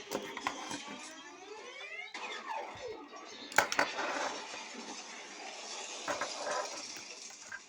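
Robot-fight sound effects: metallic clanks and hits, a rising sweep followed by a falling one, and a loud hit about three and a half seconds in.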